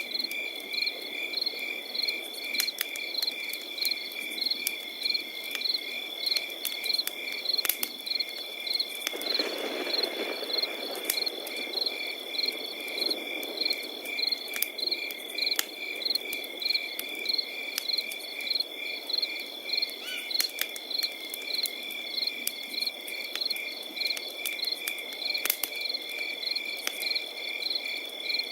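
Crickets chirping in even pulses, a couple of chirps a second, over a continuous high trill. Campfire crackling and popping is scattered throughout, with a low rush of flames that swells for a moment about ten seconds in.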